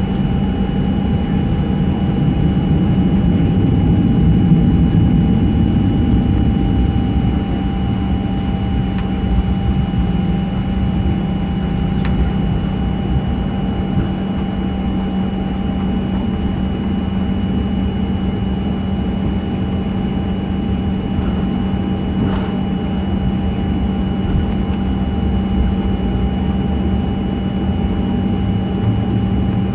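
Cabin noise of a Boeing 737-900 with its CFM56 turbofan engines running: a steady rumble with a constant whine, a little louder for a few seconds near the start.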